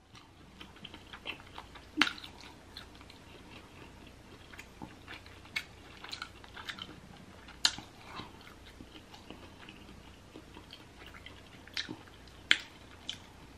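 A person chewing a mouthful slowly with the lips closed, close to the microphone: soft wet mouth clicks at irregular intervals, a few louder ones. The food is tough going and won't chew up.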